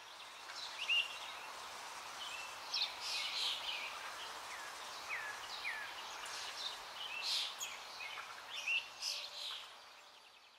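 Small birds chirping and calling over a steady background hiss, with a few short downward whistles in the middle; the sound fades in at the start and fades out near the end.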